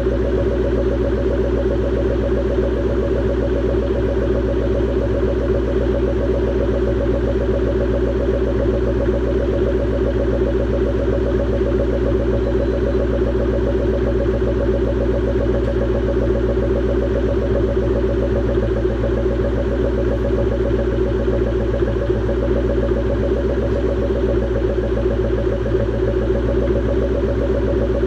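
Ford SVT Cobra V8 idling steadily through a Borla ATAK exhaust with an X-pipe.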